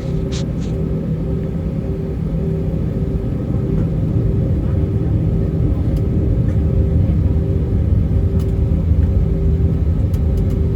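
Airbus A320's IAE V2500 jet engines at taxi power and the airframe's rolling rumble, heard inside the passenger cabin as the airliner taxis. Steady low rumble and hum that grows slightly louder about four seconds in.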